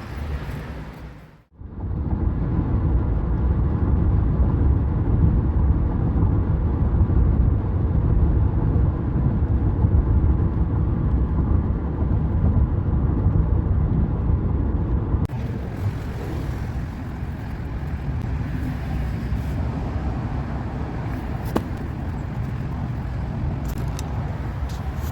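Steady low rumble of a moving car's road and engine noise. It breaks off briefly about a second and a half in and changes character abruptly about fifteen seconds in.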